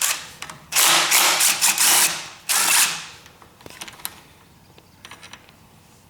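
20-volt DeWalt quarter-inch cordless power tool running in three bursts, a short one, a longer one of about a second, then another short one, as it works a fastener loose. Faint clinks of metal parts follow.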